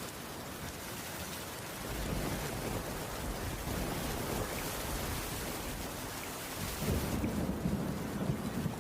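Heavy rain falling in a steady, dense hiss, with a low rumble underneath that swells about two seconds in and again near the end.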